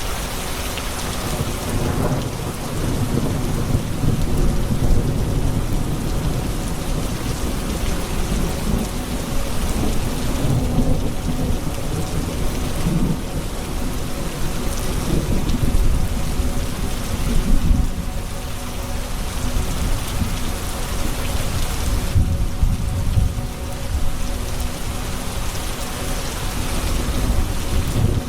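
Thunderstorm: steady heavy rain with long rolls of thunder rumbling low and swelling and fading through the whole stretch.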